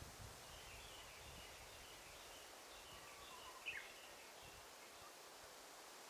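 Quiet daytime forest ambience: faint bird chirps scattered through the first few seconds, with one sharper, louder call a little under four seconds in, over a soft steady hiss.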